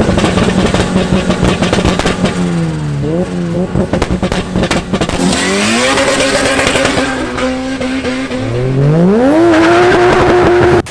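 A car engine running and being revved. Its pitch dips about three seconds in, steps up around six seconds, then climbs hard from about eight and a half seconds and holds at high revs until it cuts off.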